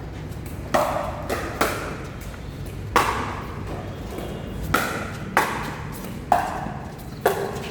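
Pickleball rally: paddles hitting the hollow plastic ball, a string of sharp pops with a short ring. There are about eight hits, irregularly spaced half a second to a second and a half apart.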